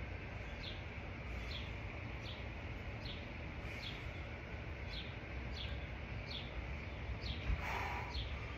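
A small bird repeats a short, high, falling chirp about once a second over a steady low rumble. Near the end there is a single thump followed by a brief rushing noise.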